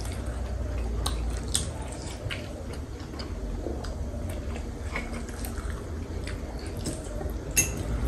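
Several people chewing and biting into steamed momo dumplings, with scattered small clicks and taps from forks and plates, over a low steady hum.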